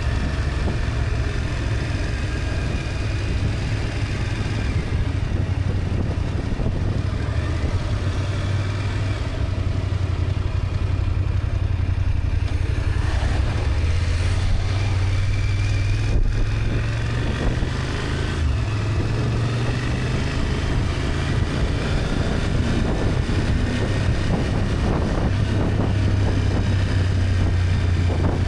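BMW F800GS parallel-twin engine running steadily while the motorcycle is ridden, a continuous low rumble with small rises and falls in engine speed.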